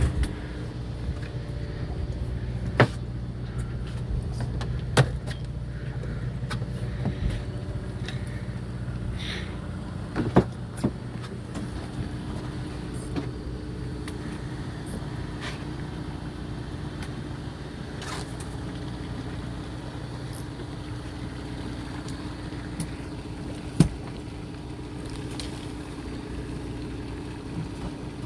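A fishing boat's engine running steadily at idle, a low hum, with a few sharp knocks and clicks now and then.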